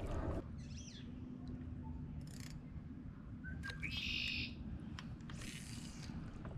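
Songbirds calling: a short curved chirp about half a second in, and a longer call around four seconds in that steps up from a low note into a higher warble, over a low steady background rumble.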